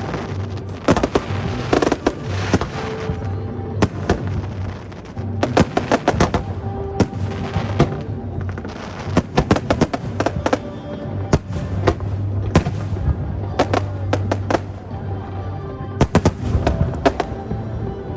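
Aerial fireworks going off in repeated volleys of sharp bangs and rapid crackles, with music playing underneath.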